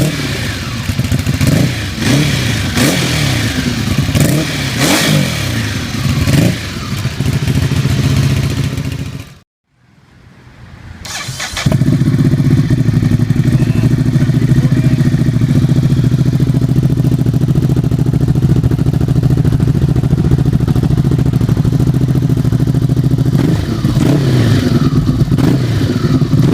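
Ducati Hypermotard 821's L-twin engine being revved repeatedly, its exhaust note rising and falling with each blip. About ten seconds in the sound briefly cuts out, then the engine runs at a steady speed.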